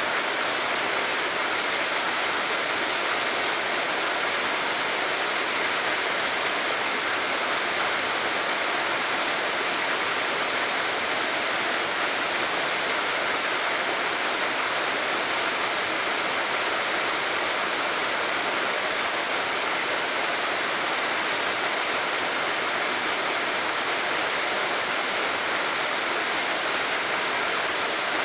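Waterfall: the steady rushing of falling water, even and unbroken.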